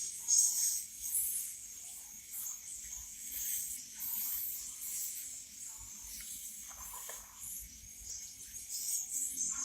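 Swiftlets chirping: a string of irregular, very high-pitched calls with no steady rhythm.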